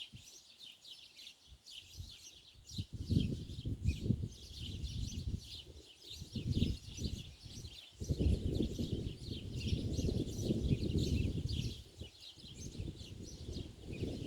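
Many small birds chirping rapidly and continuously in a high, dense chorus. From about three seconds in, gusts of low rumbling noise come and go and are louder than the birds.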